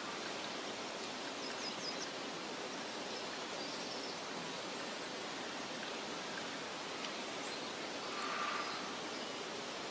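Steady hissing meadow ambience with a rustle like soft wind or flowing water. A few faint, quick, high bird chirps come about two seconds in, with another brief high call near four seconds.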